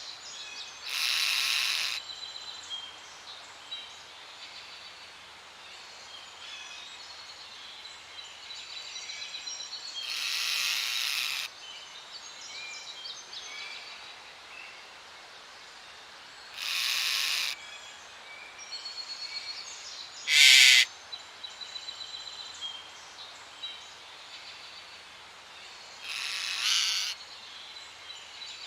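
Parrot squawking: five loud, harsh squawks at irregular intervals, one shorter and sharper than the rest. Behind them is a steady background of small birds chirping.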